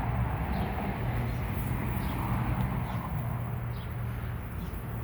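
Steady low humming of a large honeybee swarm clustered at a hive box, with short bird chirps repeating every second or so.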